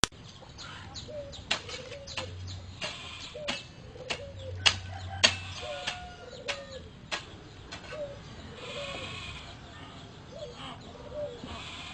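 A cat sneezing over and over in a rapid fit: a long string of small, sharp sneezes, one every half second or so, each with a short squeaky catch.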